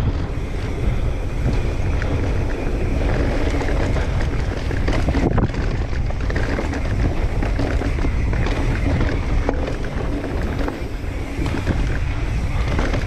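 Mountain bike riding fast down a dirt trail: wind rushing over the microphone, with tyre noise and many small clicks and knocks from the bike over rough ground.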